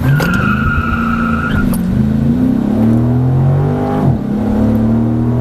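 Dodge Challenger accelerating hard from a standing start at full throttle, engine revs climbing and the automatic gearbox shifting up about two seconds and again about four seconds in. A steady high squeal runs through the first second and a half of the launch.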